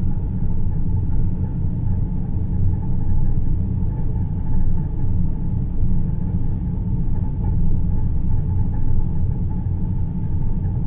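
Produced deep-space ambience: a steady, dense low rumble like filtered white noise, with a faint steady hum higher up and no changes or events.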